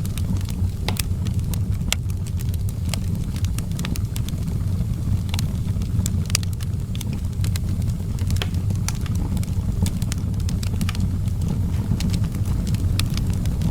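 Open fire crackling, with frequent sharp, irregular pops over a steady low rumble of the flames.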